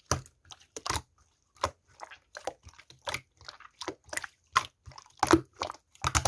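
A run of short, crisp crunching clicks at an uneven pace, roughly two to three a second, closing in a quick rapid flurry near the end.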